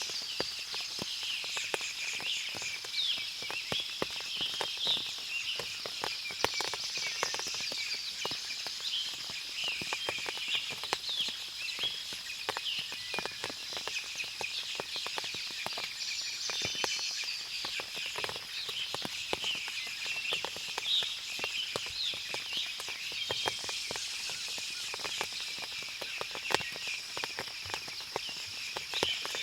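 Forest ambience after rain: many birds chirping continuously over a steady high-pitched drone, with frequent scattered ticks like water dripping from the trees.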